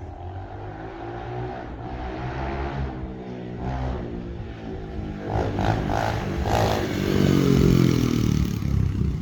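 X-Pro Storm 125cc four-stroke pit bike engine being ridden, revving up and down repeatedly and growing louder toward a peak about seven to eight seconds in. Its exhaust runs open because the spark arrestor has fallen out.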